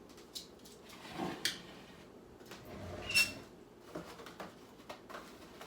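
Kitchen handling noises: a few light knocks and a scrape, with a sharper clink that rings briefly about three seconds in.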